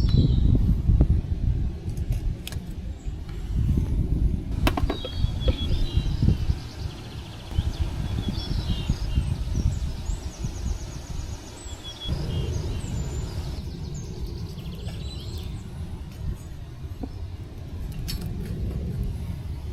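Small birds chirping and trilling in the morning forest, most busily from about four seconds to fourteen seconds in, over a steady low rumble, with a few sharp clicks.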